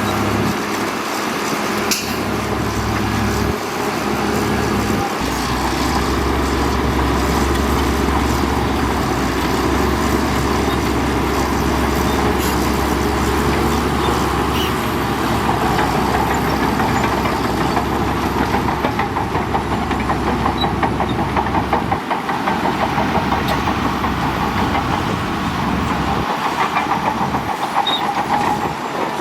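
Heavy diesel earthmoving machinery running steadily under load, with a deep rumble through the middle of the stretch and a fast, fine rattle in the second half.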